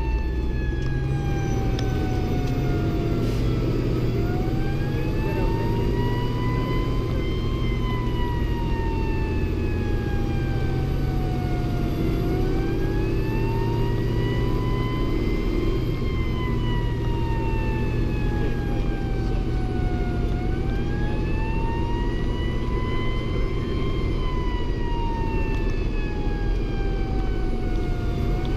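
Fire engine running with its wail siren sounding, a smooth tone that falls slowly and climbs again about every eight seconds, over steady engine and road noise.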